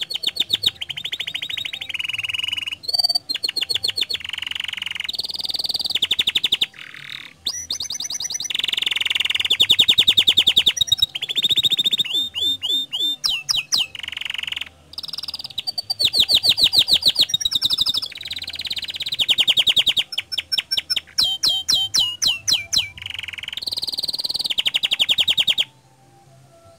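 Domestic canary singing a long, continuous song of fast trills and rolls, one phrase running straight into the next; it stops abruptly near the end.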